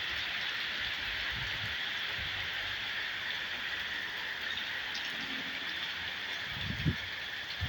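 Steady rain falling from a tropical storm, an even hiss, with a few short low thumps near the end.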